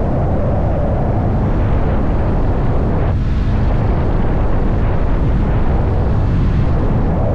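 Motorcycle engine running at road speed with steady wind noise over the microphone; the engine note changes abruptly about three seconds in.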